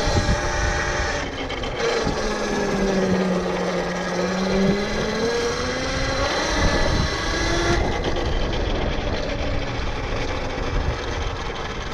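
Tuttio Soleil 01 electric dirt bike riding along, its motor whining in steady high tones over wind rushing across the helmet-mounted microphone. A lower whine dips and then rises in pitch between about two and six seconds in, as the speed changes.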